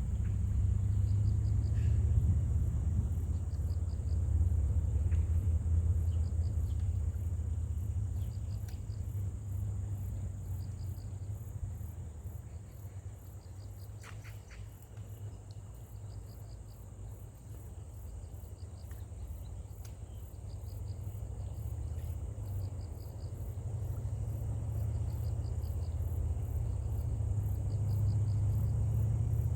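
Insects chirping in short trills repeated at an even pace, with a faster high ticking above them. Under them runs a low rumble, the loudest sound, which fades toward the middle and swells again near the end.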